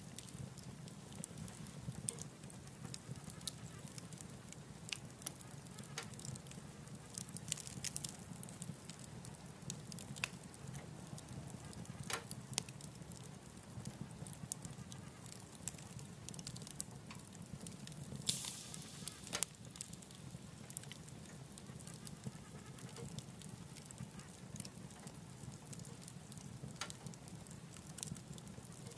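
Wood fire burning in a wood stove: scattered crackles and pops over a steady low rumble, with a brief hiss about two-thirds of the way through.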